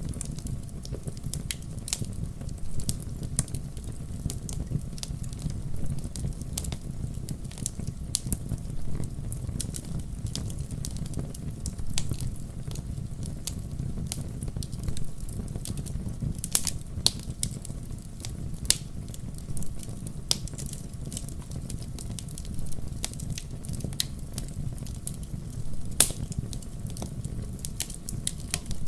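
Wood campfire crackling: a steady low rumble of burning logs under a constant scatter of small crackles, with a few louder sharp pops.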